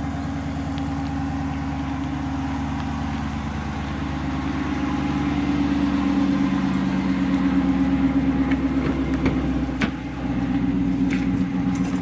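Dodge Charger R/T's 5.7-litre HEMI V8, muffler deleted, idling steadily just after a cold start. It gets slightly louder about halfway through, with a few faint clicks near the end.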